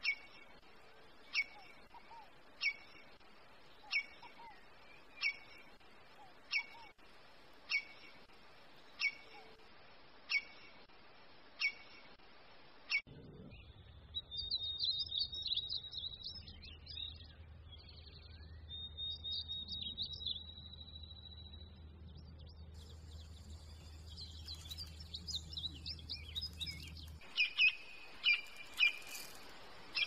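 Birds calling: a single sharp chirp repeated about every second and a quarter, then, after a change about halfway through, a warbling trill over a low steady hum, and near the end a quick run of the sharp chirps again.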